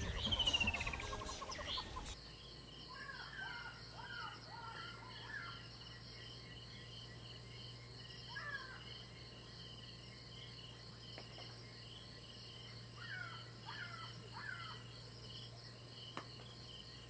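Music ends about two seconds in, giving way to bush ambience: an insect chirping steadily in a quick, even rhythm, while a bird calls in short runs of chirps three times.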